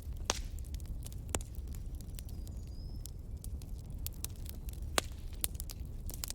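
Wood fire crackling in a fireplace: frequent sharp pops and snaps over a low steady rumble. The loudest pops come about a third of a second in, near a second and a half in, and about five seconds in.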